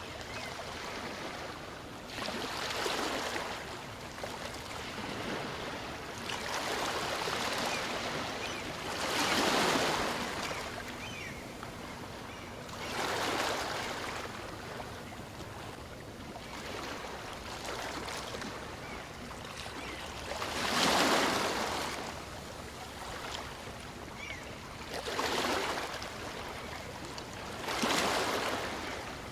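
Small waves of a calm sea washing in and out, a hissing swell of surf rising and falling every few seconds over a steady wash.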